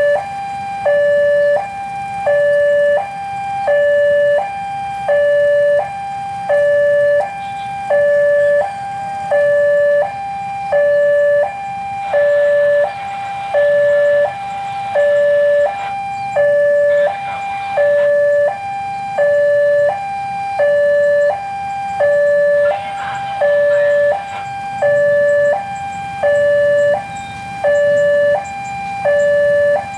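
Railway level-crossing warning alarm sounding a steady electronic two-tone signal, a higher tone and a lower tone alternating about every second and a half, which warns that a train is approaching. Two stretches of hiss break in about halfway and later on.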